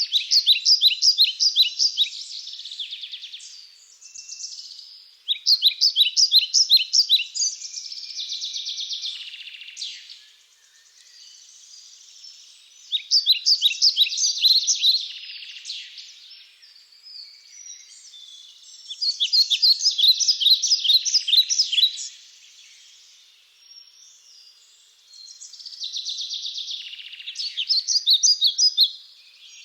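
A songbird singing loud song phrases of quick, repeated high notes, each lasting two to three seconds. Five phrases come at intervals of several seconds.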